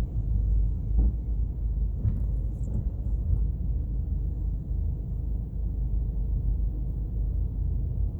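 A car driving: a steady low rumble of engine and road noise, with a few faint knocks in the first three seconds.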